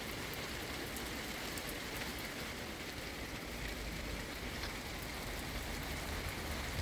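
Steady rain falling on garden leaves and wet brick paving, an even hiss.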